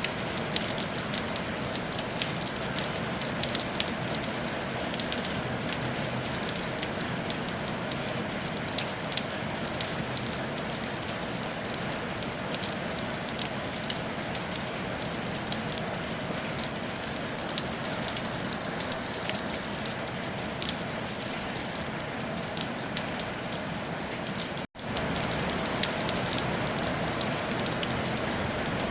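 Steady rain falling on a tile roof: an even hiss full of fine, dense drop ticks. The sound cuts out completely for a split second about three-quarters of the way through, then resumes.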